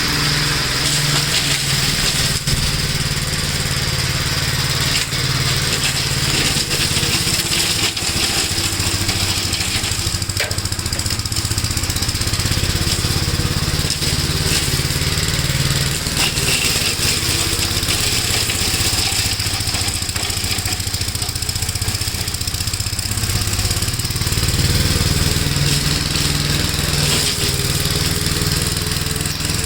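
1969 Gravely L-series walk-behind tractor's single-cylinder engine running steadily under load while mowing and mulching nuts and leaves, getting a little louder about three-quarters of the way through.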